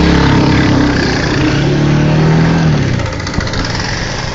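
A motor vehicle's engine running at a steady pitch. About three seconds in it gives way to a rushing noise.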